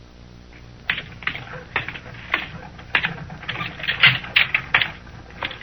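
Radio-drama sound effect of a man's footsteps: a run of sharp, clicking steps, about two to three a second, starting about a second in.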